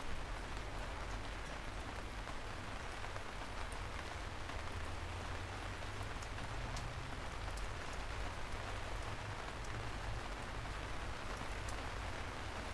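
Steady rain falling and pattering on a surface, with scattered sharper drop ticks over a low, even rumble.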